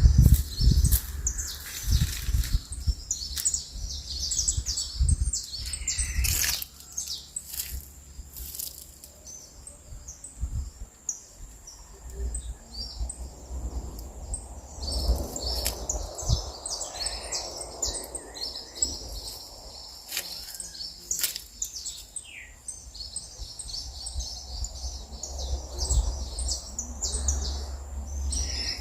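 Several songbirds chirping and singing in quick, high, repeated notes, with a low rumble underneath and a few sharp clicks.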